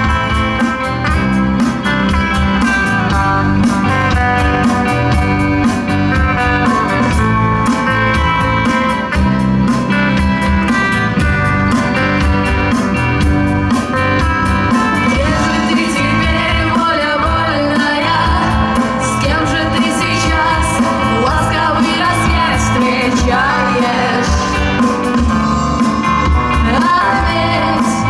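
A live rock band playing, with guitar and drums. In the second half a lead line bends up and down in pitch.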